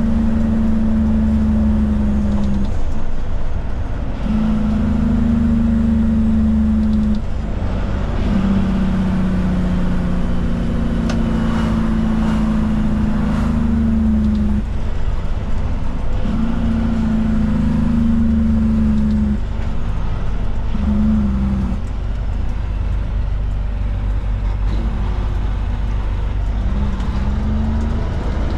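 Heavy truck's diesel engine running while driving. Its steady note breaks off and resumes every few seconds.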